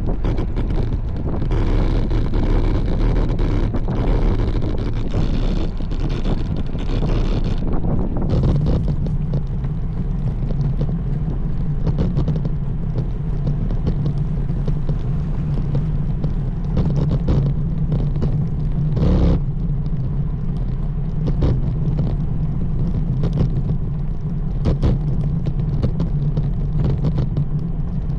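Wind rushing over the microphone with road noise from a road bike in motion. The wind hiss is strongest for the first eight seconds, after which a steady low hum takes over.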